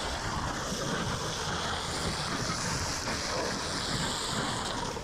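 Fire hose nozzle spraying water in a steady rushing hiss.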